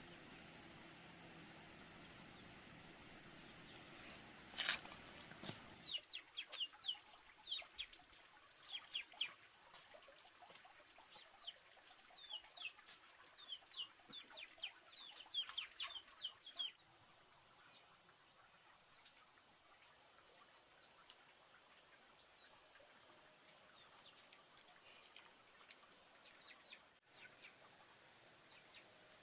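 Small birds chirping outdoors, a quick run of short, high, falling chirps that starts about six seconds in and goes on for about ten seconds, preceded by a single sharp click.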